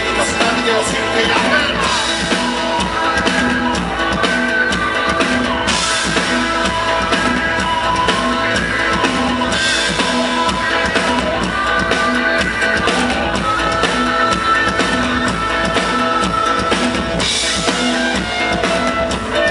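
Live rock band playing, with drum kit and electric guitar over a steady beat.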